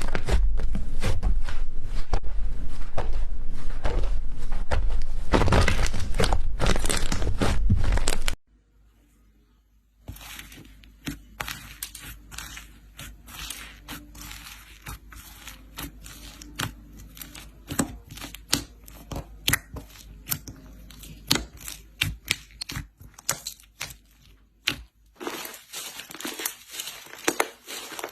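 Slime being squeezed and worked by hand, making dense crackling and popping. It is loud for the first eight seconds, then after a brief silence continues as quieter, sparser crackles and clicks.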